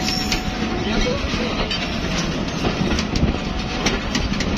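Passenger train coaches running at low speed: a steady rumble of wheels on rail, with scattered sharp clacks as the wheels cross rail joints, heard from the open doorway of a coach.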